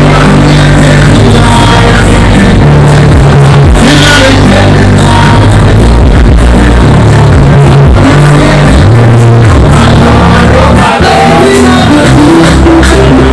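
Very loud live music through a PA system: a heavy bassline with a singer's voice over it.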